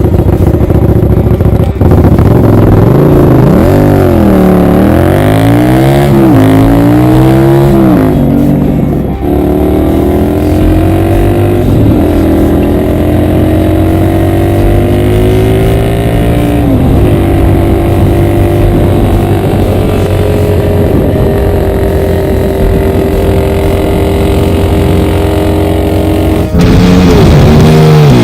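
Honda CX500 V-twin motorcycle engine revved up and down several times, then pulling steadily with its pitch climbing slowly and dropping at a couple of gear changes.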